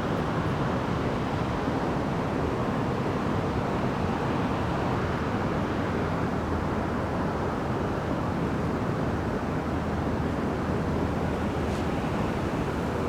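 Steady outdoor rushing noise of wind on the microphone and moving river water, even throughout with no distinct events.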